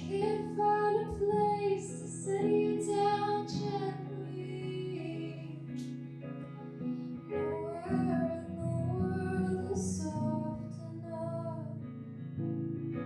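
A solo singer's voice singing over guitar accompaniment, in two phrases with a sung pause between them.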